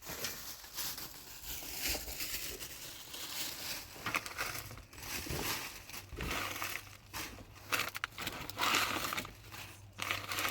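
Plastic sheeting crinkling and rustling as it is handled, in irregular bursts.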